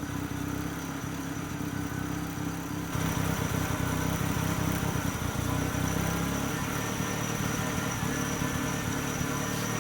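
An engine running steadily, growing louder in a step about three seconds in and then holding.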